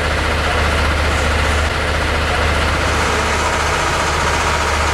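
Chihuahua al Pacífico passenger train under way, a steady low rumble of engine and running gear with an even rushing noise over it.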